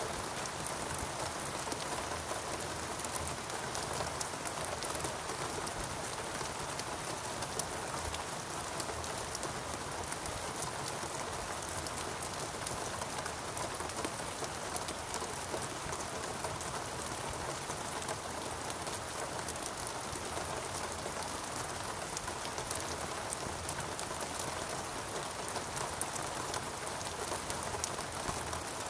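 Steady rain falling in a rainforest, a dense hiss with many fine drop patters.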